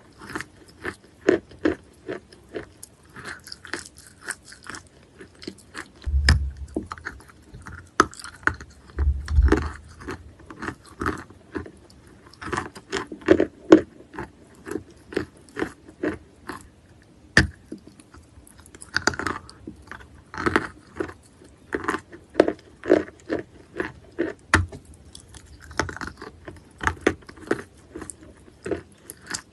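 A person biting and chewing wet natural chalk close to the microphone: a dense run of irregular crisp crunches, with two louder low thuds about six and nine seconds in.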